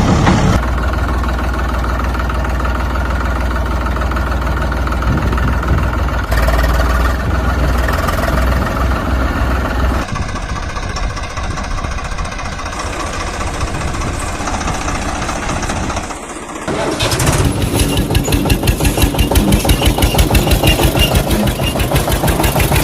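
Tractor engine running, its sound changing about ten seconds in and dropping briefly around sixteen seconds. After that it settles into an even, rhythmic chug.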